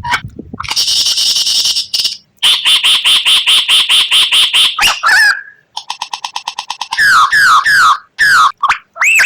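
White-rumped shama (murai batu) song in a fast-changing run of phrases: a harsh buzzy note, then a long rapid rattle of about eight notes a second, a quick ticking run, and from about seven seconds in, repeated sliding, looping whistles.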